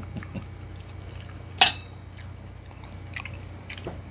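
Close-up eating sounds: people chewing and biting food eaten by hand, with small scattered clicks over a steady low hum. About one and a half seconds in there is a single loud, sharp clack.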